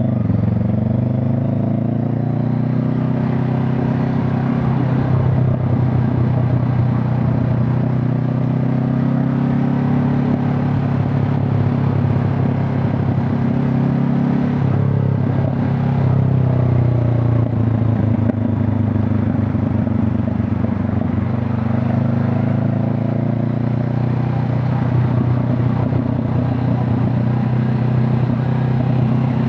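Honda CB500 Hornet's parallel-twin engine running while riding, its exhaust note rising and holding steady, dropping about halfway through and then climbing again.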